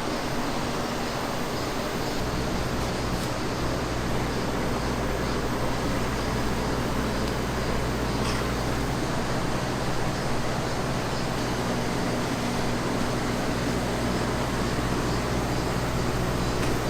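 Steady urban background noise with a low traffic-like rumble, even throughout, with no distinct events.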